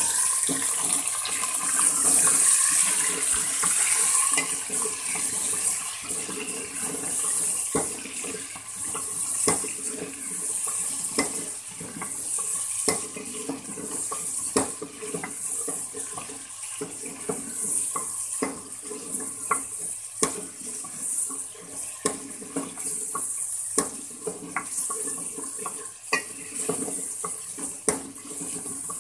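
Chicken pieces sizzling in hot oil with browned onions in a metal pot, loudest in the first few seconds after going in, while a spatula scrapes and clicks against the pot as they are stirred.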